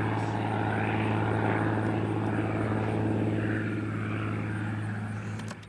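Cessna 182T Skylane's six-cylinder Lycoming engine and propeller droning steadily under power, slowly growing fainter, then cutting off sharply just before the end.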